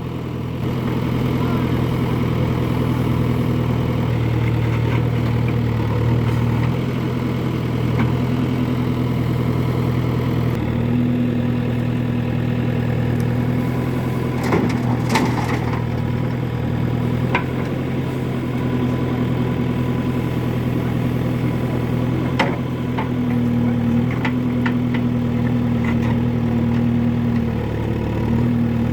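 Heavy diesel machine engine running steadily near idle, its note stepping up and down a few times, with scattered sharp knocks and clatters over it.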